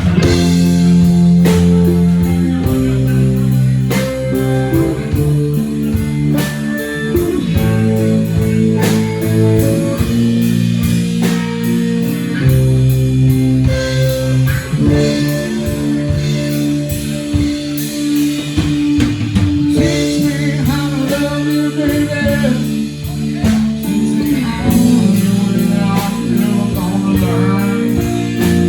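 Live blues-rock band playing the start of a song: electric guitar, bass and drum kit in a steady beat, starting abruptly just before.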